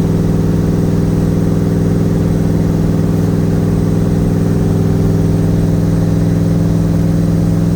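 Twin-turbo Nissan VK56 V8 engine running steadily at cruise, heard from inside the car's cabin as a deep, even drone.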